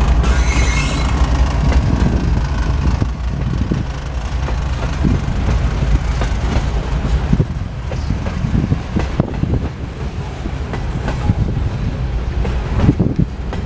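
Diesel locomotives rumbling past close by, their engine drone strongest in the first few seconds, then refrigerated boxcars rolling by with a rumble of wheels and irregular clacks over the rail joints.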